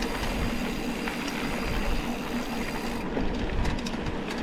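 Mountain bike being ridden over a dirt trail: tyres rumbling on the ground and wind on the bike-mounted camera's microphone. A high hiss drops away about three seconds in.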